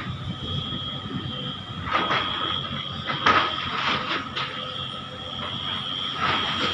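Sunward excavator working: diesel engine running with a steady high whine, broken by several sudden clanks and rattles, the loudest about a third of the way in.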